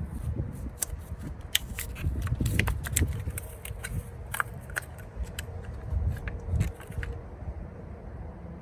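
Plastic retail package being popped open and handled: a run of sharp plastic clicks and crackles that stops about seven seconds in.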